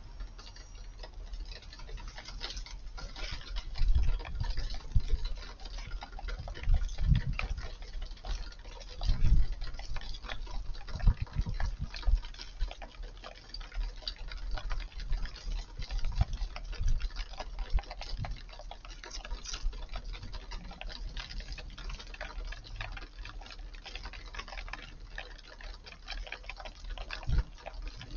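Eurasian tree sparrows feeding: a scatter of many small quick ticks and clicks, with wind gusting on the microphone in low rumbles every few seconds.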